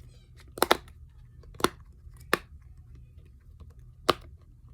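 Silicone pop-it fidget bubbles being pushed through, each giving a sharp pop: a quick pair near the start, then three single pops spaced about a second or more apart.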